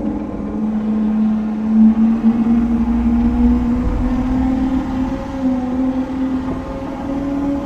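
Motorcycle engine running at a fairly steady speed while riding, its note holding almost level, over low wind rumble.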